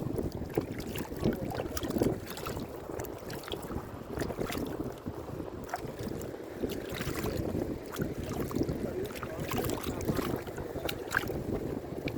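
Wind rumbling on the microphone, uneven and gusty, with scattered small knocks and clicks.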